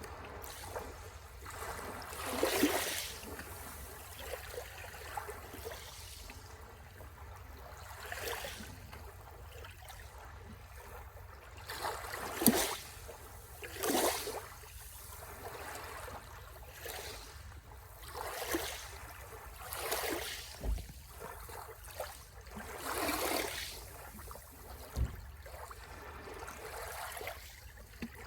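Sea waves washing onto a shore, each one a separate splash or swish arriving irregularly every one to three seconds over a steady low rumble.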